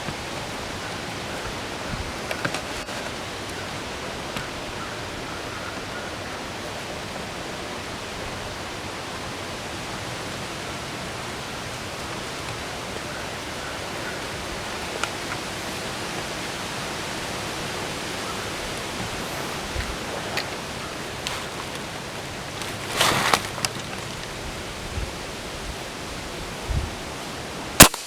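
Steady wind rushing over the microphone, with a few faint rustles. Near the end a single sharp gunshot, by far the loudest sound.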